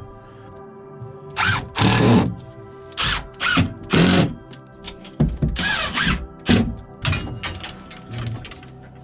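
A cordless drill or driver run in about eight short bursts of half a second or so, over music playing on a radio.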